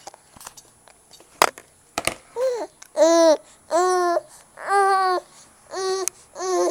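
A nine-month-old baby babbling: about six drawn-out, sing-song vocal sounds in a row, starting about two seconds in, after a few sharp clicks or taps.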